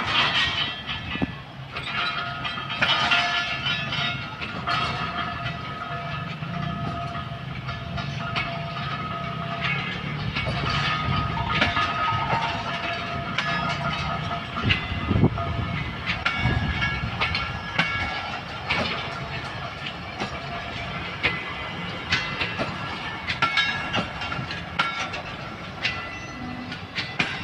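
Passenger train's coaches rolling along the track: a steady low rumble with repeated clicks of wheels over rail joints and faint high ringing tones from the wheels and rails.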